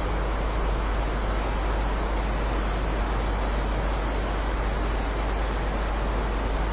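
Heavy rain falling steadily: an even, unbroken hiss with a deep rumble underneath.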